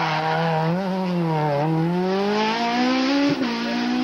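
Rally car engine pulling out of a hairpin under load: the note sags, then climbs steadily and levels off, with a brief sharp pop about three seconds in.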